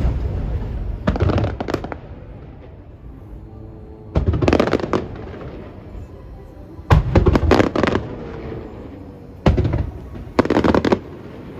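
Aerial firework shells bursting overhead in about five separate volleys of loud bangs and crackling, with short lulls between them.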